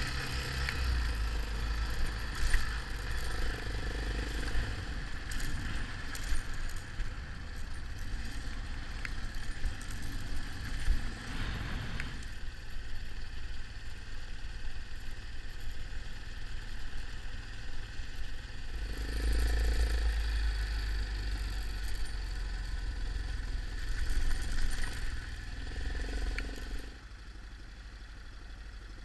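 Yamaha XT 600 single-cylinder motorcycle engine running on the move, with occasional knocks and rattles. The sound drops in level about two seconds before the end.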